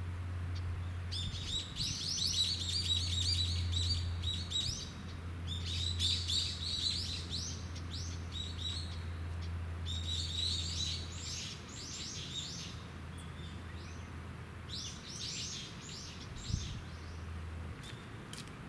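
Common kingfisher calling in four bursts of rapid, high-pitched chirps, each about two seconds long, over a low steady hum that stops near the end.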